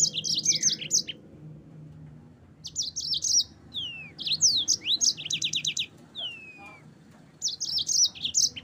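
Yellow-fronted canary singing: several quick phrases of rapid high chirps and trills mixed with down-slurred whistles, broken by short pauses.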